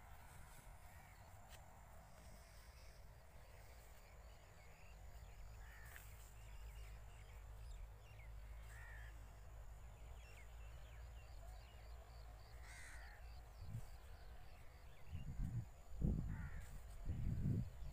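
Birds calling now and then in short calls over a wheat field, with a steady low rumble of wind on the microphone and a few loud low thuds near the end.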